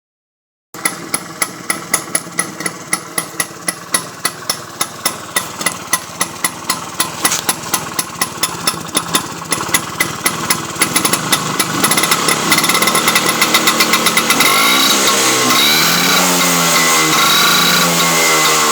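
Vespa scooter engine running through a VW-style aftermarket silencer exhaust. It idles with a pulsing putt whose beats speed up as it warms up and the revs rise, then it is revved up and down several times from about fourteen seconds in.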